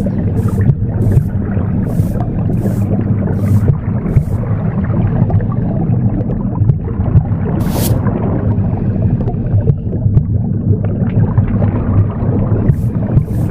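Womb sound, a steady low whooshing rumble, mixed with broom sweeping strokes: short hissing swishes about twice a second in the first four seconds, a single stronger swish a little past halfway, and the swishes resuming near the end.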